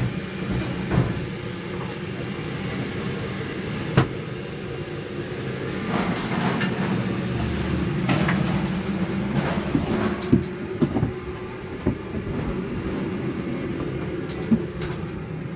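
Steady hum of a Boeing 777's cabin air system, with scattered knocks and clicks, the sharpest about four seconds in and near the middle.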